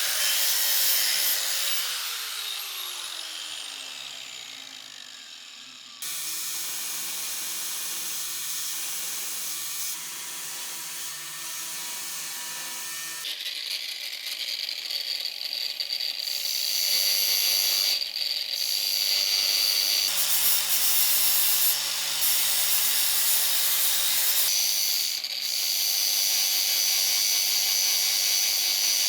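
Power tool running during metal restoration work, its pitch falling as it winds down over the first few seconds, then several different steady running sounds that change abruptly from one to the next.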